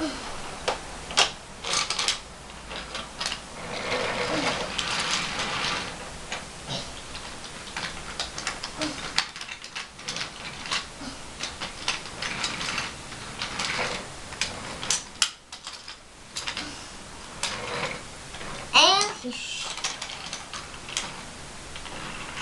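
Wooden toy trains and trucks being handled and pushed along wooden track, with irregular clicks, knocks and clattering. Near the end there is a short, wavering high squeal.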